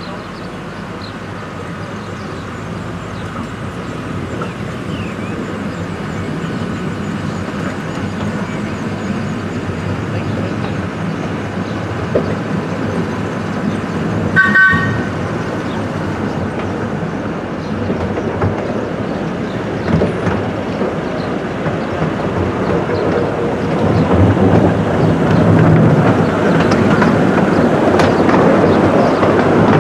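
Miniature railway train running, its noise slowly building as it gathers speed, with a short toot of its whistle or horn about halfway through. The wheels clatter louder toward the end.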